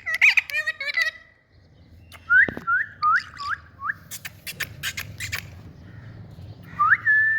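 Indian ringneck parakeet calling: a quick warble of chirps, then a run of five short swooping whistles, some sharp clicks, and near the end a rising whistle held on one note.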